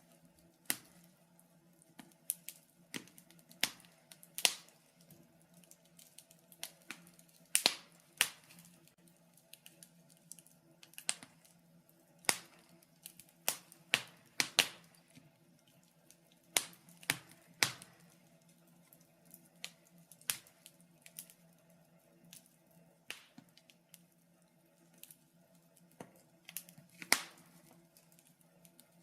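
Wood fire crackling in a fireplace: irregular sharp pops and snaps, about one or two a second and uneven in strength, over a faint steady hum.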